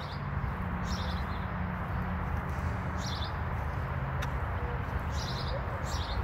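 Small songbird chirping: three short bursts of quick, high repeated notes, about a second in, three seconds in and near the end, over a steady low background rumble.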